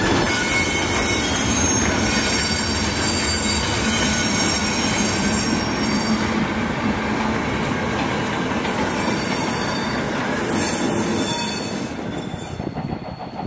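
Train rolling on the track with its steel wheels squealing against the rails, many high ringing tones over a steady rumble, easing off near the end.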